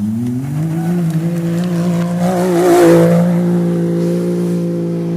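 Racing engines running hard: one rises in pitch, then holds a steady high drone. Another grows louder with a wavering pitch about two and a half seconds in, as if passing close.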